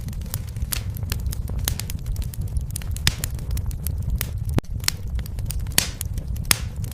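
Wood fire burning in a fireplace: a steady low rumble of flames with irregular sharp crackles and pops, a few louder snaps in the second half.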